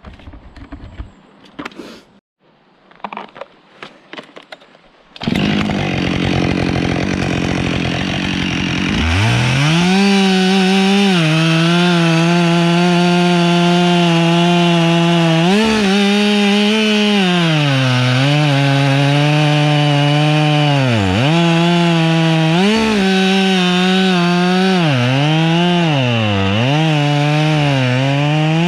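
A few faint knocks, then a Husqvarna 572XP two-stroke chainsaw starts up about five seconds in and idles. Near nine seconds it revs up to full throttle and cuts, its pitch dipping and recovering again and again as the chain bites into the pine wood.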